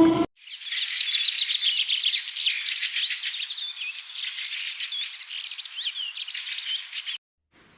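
Many small birds chirping and twittering at once, a dense overlapping chorus of short high calls that cuts off suddenly near the end.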